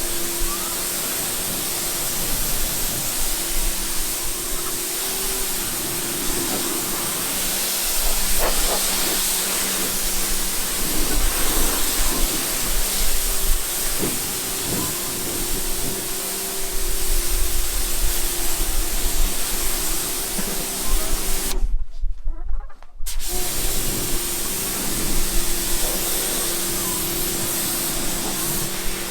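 Water spraying in a steady hiss, with a motor humming underneath that comes and goes. The sound cuts out suddenly for about a second a little over two-thirds through.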